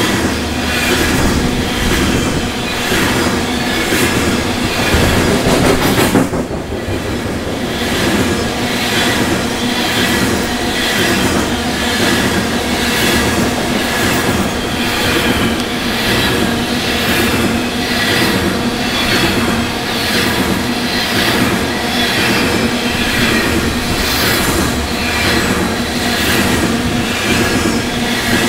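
Empty coal hopper cars of a freight train rolling past close by: steel wheels clattering over the rail joints in a steady, repeating rhythm.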